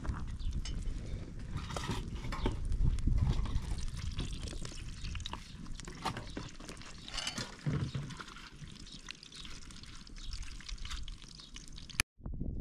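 Sliced potatoes frying in a pan of hot oil over a wood fire: a steady sizzle with many small crackles. It breaks off suddenly near the end.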